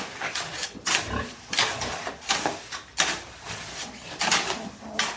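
Pigs grunting: a series of short, noisy calls roughly once a second.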